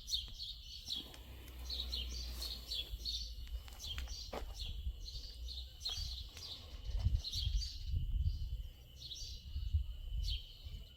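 Small songbirds chirping and tweeting over and over, with a low rumble underneath that swells about seven seconds in.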